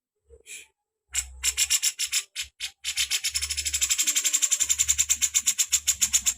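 A bird's rapid, dry rattling call: fast even trains of sharp high notes, about ten a second, in short broken runs and then one long unbroken rattle over the second half.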